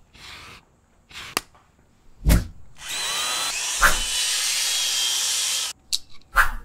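Power drill driving the kit's sanding or buffing pad on a headlight lens, running steadily for about three seconds with a faint whine. Before it come a few short knocks and a thump, and after it several short bursts.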